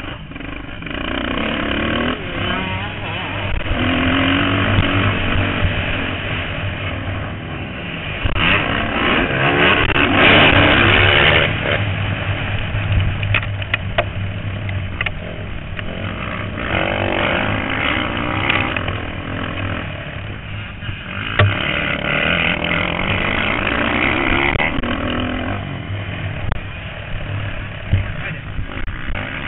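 Motocross bikes racing on the track, several engines revving up and down as riders pass. The loudest passes come about ten seconds in and again around twenty-two seconds in.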